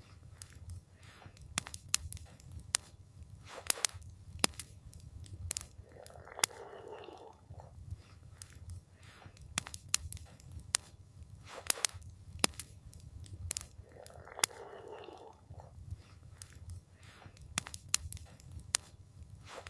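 Wood fire crackling, with sharp irregular pops and snaps over a low steady rumble. A soft swell of noise rises and fades twice, about eight seconds apart.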